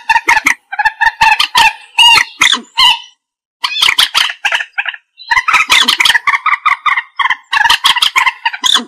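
Common moorhen calling: runs of quickly repeated short notes, with a brief pause a little after three seconds in.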